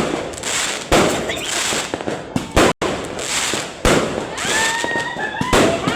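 Fireworks going off: a sharp bang every one to one and a half seconds over continuous crackling.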